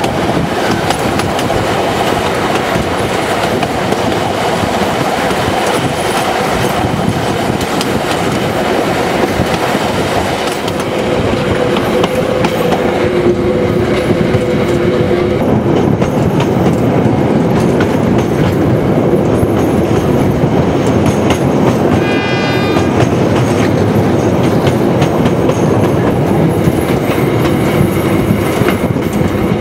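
Passenger train carriages running along the track, heard from aboard: a steady rumble with wheels clattering over rail joints. About two-thirds of the way through comes a brief, high, pitched tone lasting under a second.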